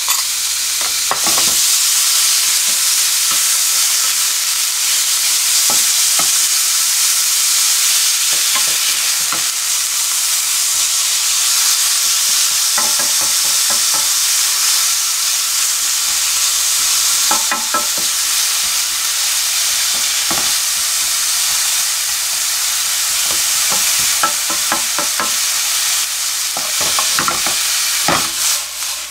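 Minced pork sizzling steadily in hot oil in a nonstick frying pan as it is stir-fried and broken up with a wooden spoon, with scattered scrapes and taps of the spoon against the pan.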